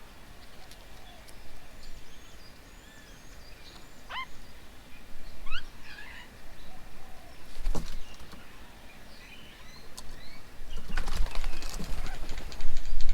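Several wild birds calling with short chirps and rising whistles. Louder bursts of rustling noise come about two thirds of the way in and again near the end.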